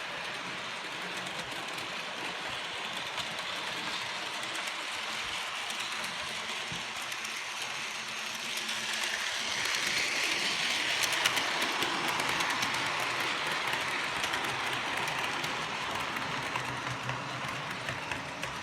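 Model locomotive running on its track pulling a rake of coaches: a steady whirr and rattle of wheels on the rails, louder for a few seconds about ten seconds in.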